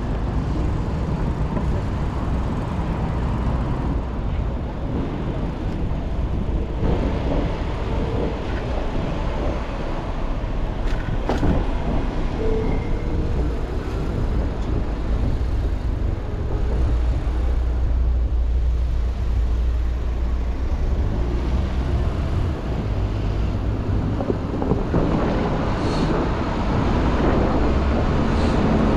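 City street traffic heard from a moving bicycle: cars and other vehicles running by, over a steady low rumble of wind on the microphone.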